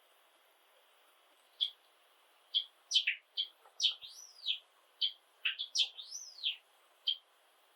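Java sparrow singing: starting about a second and a half in, a few short chips build into a quick run of clicking notes and arching whistled glides, ending with a single chip near the end.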